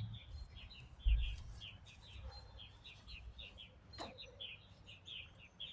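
Small birds chirping repeatedly, a quick run of short high chirps, with a dull low thump about a second in and a sharp click about four seconds in.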